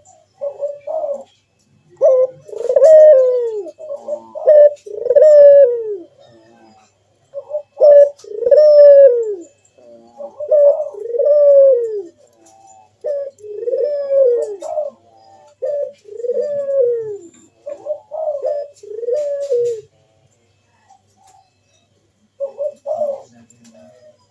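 Barbary dove (burung puter) cooing in repeated phrases. Each phrase is a few short notes followed by a long coo that rises and falls. There is a pause of about two seconds near the end before it starts again.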